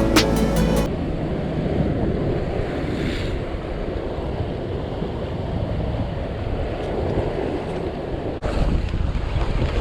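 Music cutting off about a second in, then wind buffeting the microphone over the steady wash of sea waves, with a brief drop about eight seconds in.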